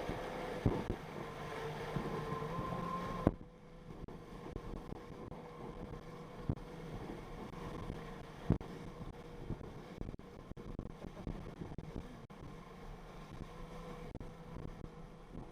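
Jet ski engine running steadily, with wind hiss on the microphone and occasional thumps. About three seconds in, the hiss and the upper engine tones cut off suddenly, and a quieter steady engine note carries on.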